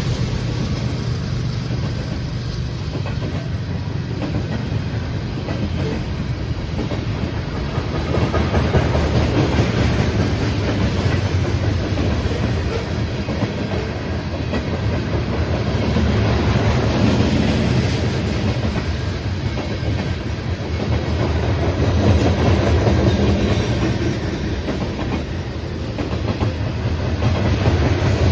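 Train rolling past at close range: a continuous rumble of wheels on rail with clickety-clack, swelling and easing in loudness several times as the cars go by.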